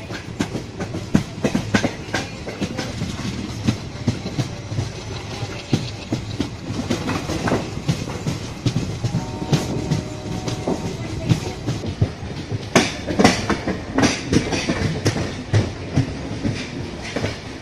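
Passenger train coach running at speed, heard close from an open window: steady rolling noise with wheels clattering irregularly over rail joints, and a denser run of loud clacks about thirteen seconds in.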